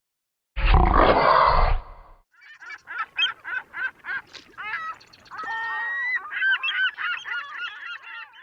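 A loud rush of noise lasting about a second and a half, then a bird giving a rapid run of short honking calls, several a second, with one longer held note partway through.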